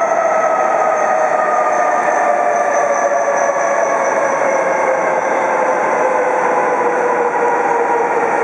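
E7/W7 series Shinkansen train decelerating into a station: the motor whine slides steadily down in pitch as it brakes to a stop, over the train's running noise.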